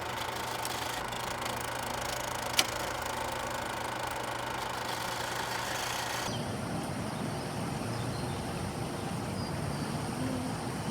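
Steady background ambience with a low engine-like hum and a single sharp click about two and a half seconds in; about six seconds in the background changes abruptly to a rougher low rumble.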